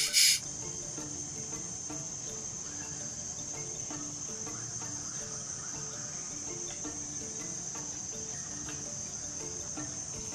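Steady, high-pitched insect drone, with soft music of short low notes playing underneath.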